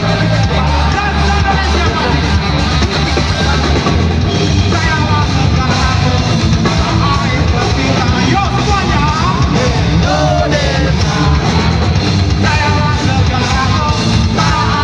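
Rock band playing live: drums and guitars in a loud, dense mix, with a lead vocal singing over them.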